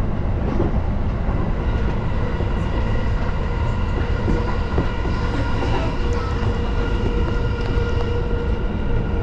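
JR Yokohama Line E233-series electric train running between stations, heard from inside the car: a steady rumble of wheels on rail under a steady whine of several tones, with a few light clicks.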